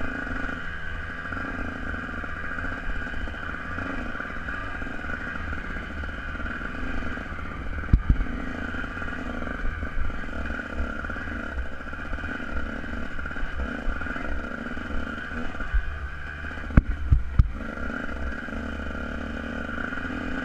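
Dirt bike engine running steadily while riding, over a heavy low rumble, with a few sharp knocks: one about eight seconds in and two close together later on.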